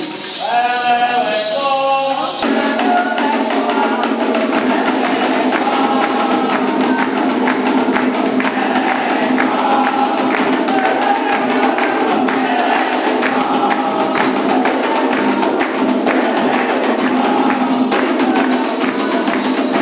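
Candomblé ceremonial music: a single voice, then from about two seconds in a group singing over steady, fast hand percussion.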